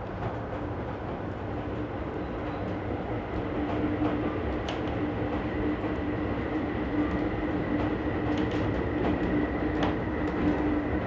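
Amtrak Desert Wind passenger train running: a steady rumble with a constant hum, a fainter high tone and a few light clicks, slowly getting louder.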